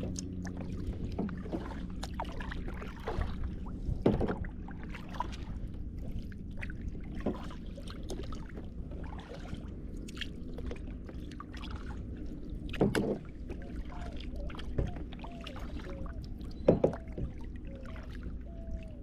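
Kayak being paddled: water swishing with the paddle strokes, and a few sharp knocks, the loudest about four, thirteen and seventeen seconds in.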